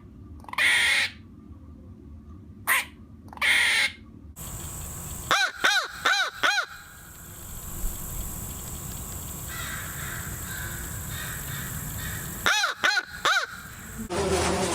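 A crow cawing: two runs of four quick caws, each caw rising and falling in pitch, separated by several seconds of outdoor background. The first few seconds hold three harsh, rasping bird calls that end about four seconds in.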